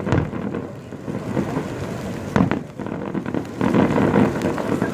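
Fireworks exploding: a sharp bang right at the start and another about two and a half seconds in, then a denser run of overlapping bangs and rumble from about three and a half seconds on.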